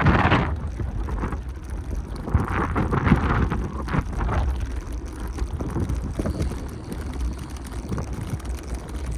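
Wind rumbling on the microphone while cycling through city streets. Louder patches come around two to four seconds in.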